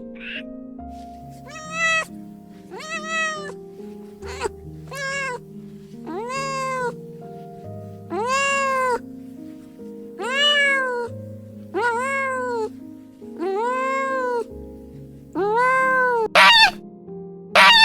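Domestic cat meowing over and over, about a dozen drawn-out meows that each rise and fall in pitch, about a second apart, with a few shorter, sharper calls near the end. Soft background music plays underneath.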